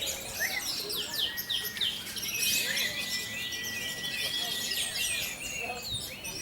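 Many caged songbirds singing at once: a dense mix of quick chirps, rapid trills and whistled glides, with one clear whistle held for a couple of seconds around the middle.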